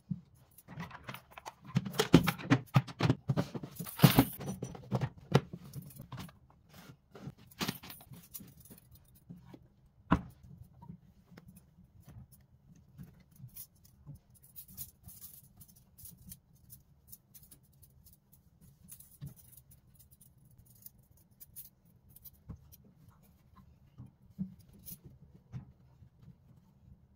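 Household items being handled and set down: a busy run of clicks, clinks and rustling for the first several seconds, a single sharp knock about ten seconds in, then only sparse light clicks.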